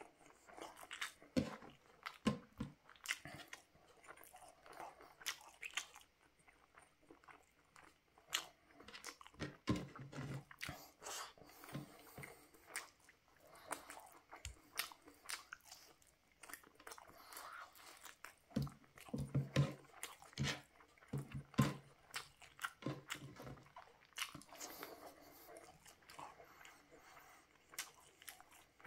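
Close-miked eating: wet bites and chewing of grilled chicken barbecue and rice, with irregular smacking clicks and crunches. A few short low hums from the eater come around ten seconds in and again about twenty seconds in.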